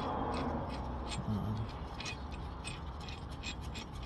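Small metal clicks and light scraping from a brake caliper piston reset tool being fitted and rocked against the caliper piston, scattered irregularly throughout.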